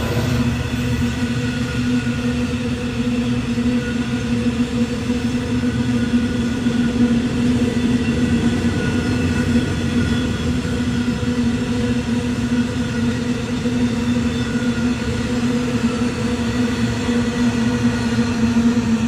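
A train running steadily: a continuous hum with a strong low tone and fainter higher tones that drift slightly in pitch.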